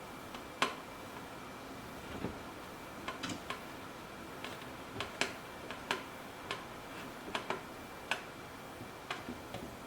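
A small screwdriver driving a screw into a plastic humidifier base, making irregular light clicks and ticks as the screw and screwdriver turn and catch.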